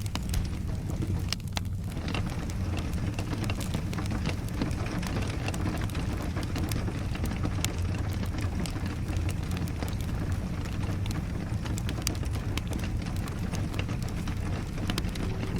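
Wood fire crackling with many small pops over a steady rumble of rain.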